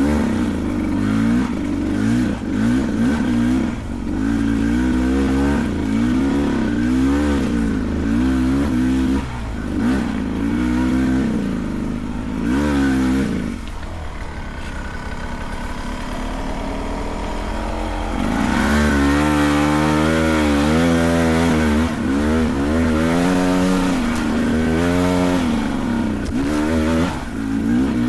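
Beta 300 Race Edition two-stroke dirt bike engine revving up and down again and again as the throttle is worked. About halfway through it drops to a quieter, lower, steadier run for a few seconds, then revs hard up and down again.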